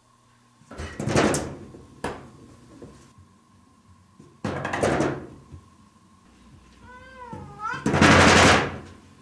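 A cat batting at a sliding frosted-glass door in its wooden frame, rattling it three times, the last time loudest. A short meow comes just before the third rattle.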